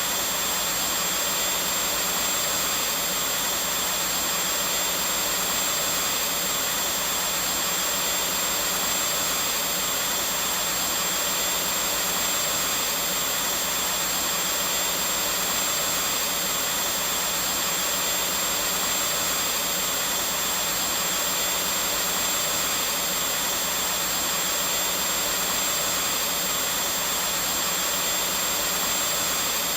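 Vacuum cleaner running steadily: an even, unbroken rushing hiss of air with a faint high whine, without change.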